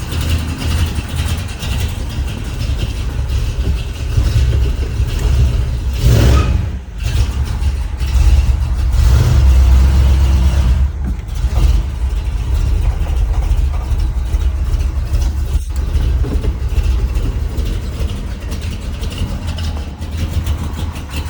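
1979 Ford F-150's engine, fitted with a Holley four-barrel double-pumper carburetor and headers, running just after a cold start. It gets louder twice, about six seconds in and again around nine to ten seconds, then settles back to a steady idle.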